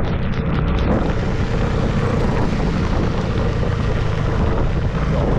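Steady rush of wind buffeting the microphone on a moving motorcycle in driving rain, over a low engine rumble. The hiss grows fuller about a second in.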